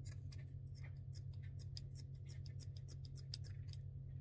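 Scissors snipping into cheesecloth in a quick run of short cuts, several clicks a second, over a steady low hum.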